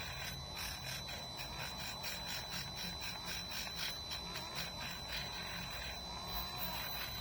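Rapid back-and-forth scrubbing on a motorcycle fuse box terminal, about four strokes a second, to clean the contact.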